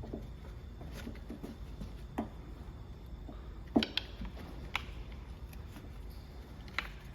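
About five separate sharp clicks and knocks of tools and small parts being handled, the loudest nearly four seconds in, over a low steady hum.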